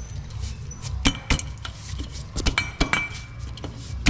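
Metal hand tools and sockets clinking and clattering as they are handled, a string of sharp clicks with one short metallic ring. A steady low hum runs underneath.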